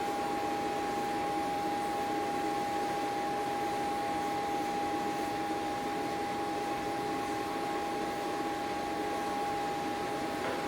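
A machine running steadily, with a constant high hum over an even rushing noise.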